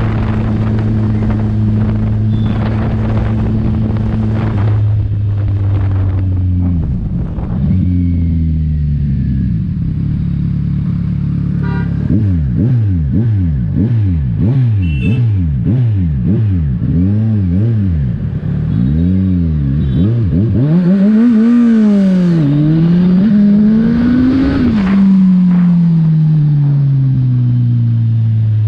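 Kawasaki Ninja 1000's inline-four engine through its exhaust: holding a steady note, then dropping in pitch in a few steps, then a run of quick throttle blips, nearly two a second. A few longer revs follow, and the note falls steadily near the end as it winds down.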